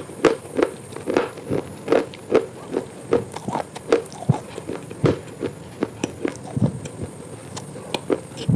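Close-up chewing of crisp baked clay (clay pot pieces), a steady run of sharp, crisp crunches, about two or three a second.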